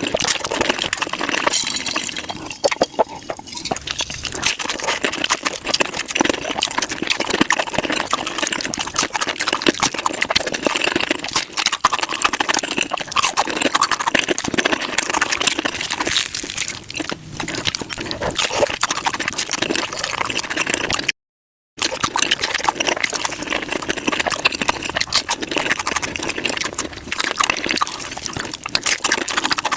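Close-miked eating sounds sped up five times: rapid, dense crunching and wet chewing of tacos. The sound cuts out for about half a second a little over two-thirds of the way through.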